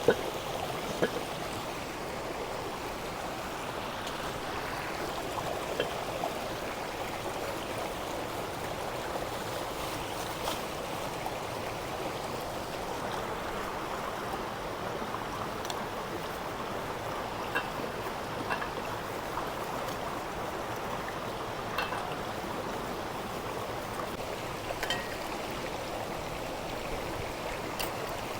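A fast-flowing river rushing steadily, running heavy from a hurricane's floodwater, with a few faint ticks scattered through it.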